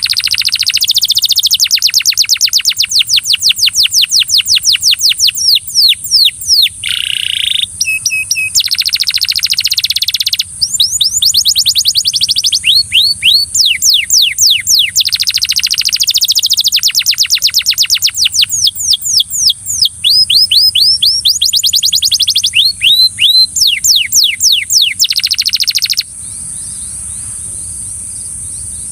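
Belgian canary singing in long, rapid trills: rolling phrases of quickly repeated sweeping notes that change pace and pitch from phrase to phrase. Its song stops about 26 seconds in, leaving a steady high hiss that also runs under the song.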